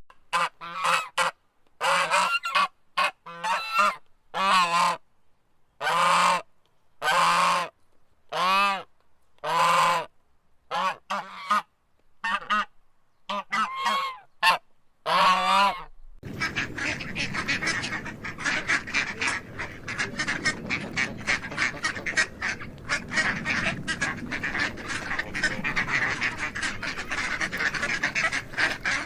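Domestic waterfowl calling: about a dozen single honking calls with short pauses between, then, about halfway through, a whole flock calling together in a continuous, overlapping chatter.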